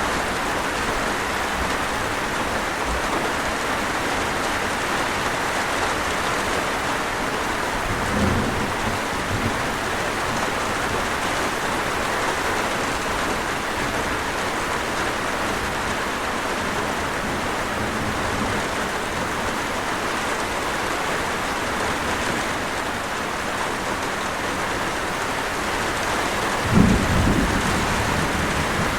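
Steady rain falling, with low rolls of thunder: a soft one about eight seconds in and a louder one near the end.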